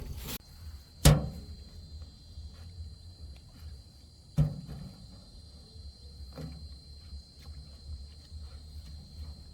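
Two sharp knocks, about a second in and again some three seconds later, then a few lighter taps, over a steady low rumble and a thin high steady whine.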